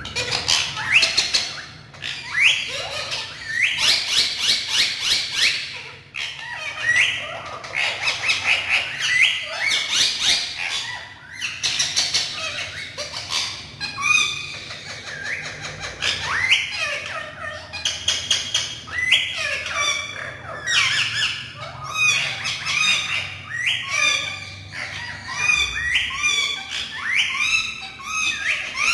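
Green parrots squawking and calling in rapid runs of shrill, rising calls and chatter, loud and nearly continuous.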